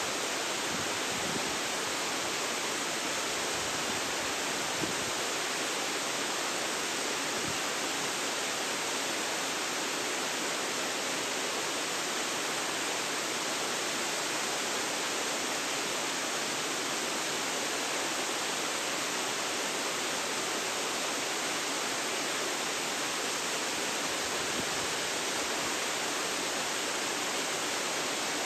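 Waterfall rushing steadily, a continuous even roar of falling water without breaks.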